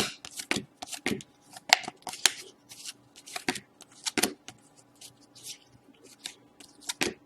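Hockey trading cards being handled and flipped through by hand: an irregular run of quick snaps and slides of card stock, a few a second.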